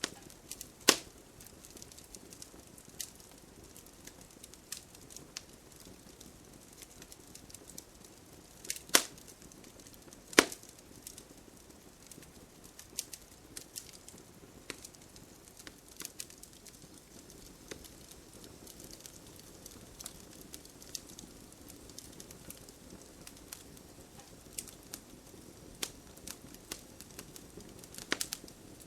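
Campfire wood burning: irregular crackling with scattered sharp pops over a low, steady hiss of the flames, with a few louder pops about a second in, around nine and ten seconds in, and near the end.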